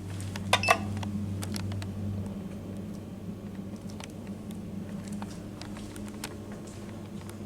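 Modernised Otis lift in motion: its motor gives a steady hum with several tones, and the lowest part of the hum drops out about two seconds in. A sharp double clack about half a second in is the loudest sound, and lighter clicks and ticks follow.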